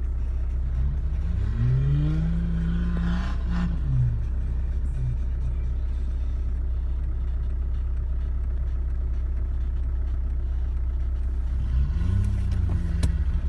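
1988 Nissan Patrol's 3.3-litre turbo-diesel engine running steadily under a low rumble, revving up about a second in, holding, then dropping back about four seconds in; it revs up again near the end.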